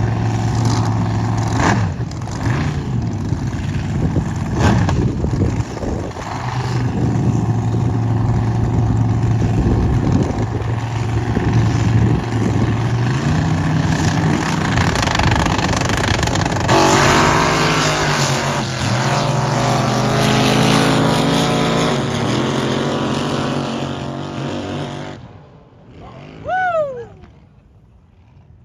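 Drag boats' racing engines running loud and revving through a run, then dying away about 25 seconds in. A short falling whine follows near the end.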